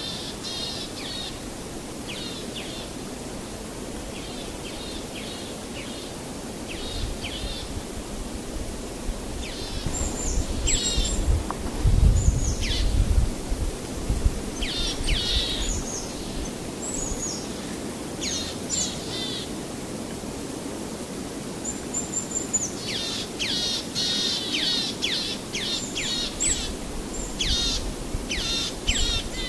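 Small birds chirping in quick runs of short, falling chirps over a steady background hiss. A low rumble swells for a few seconds around the middle.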